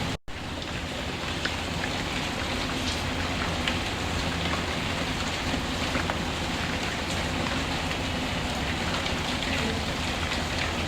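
Steady rain falling, with faint scattered crackles from a fireplace. The sound cuts out for an instant just after the start, then resumes.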